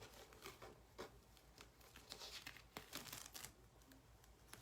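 Faint crinkling and small ticks of a plastic silk-screen transfer being peeled up off the painted surface, busiest a little past the middle.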